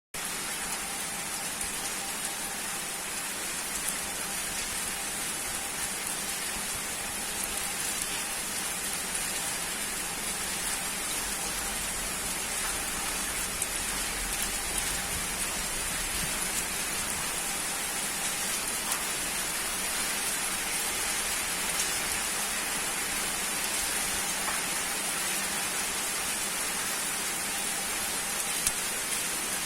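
Steady rainfall, with scattered drops ticking on a hard surface.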